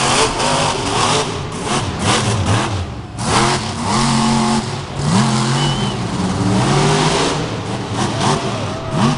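Monster truck engine revving hard during a freestyle run, its pitch rising and falling over and over, with sudden loud hits between the revs.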